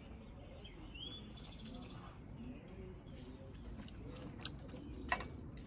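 Songbirds chirping, with a short rapid trill about a second and a half in. A single sharp click near the end.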